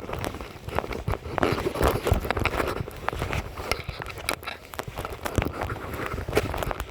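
Footsteps of someone walking over rain-soaked ground: a quick, irregular series of soft steps and rustles.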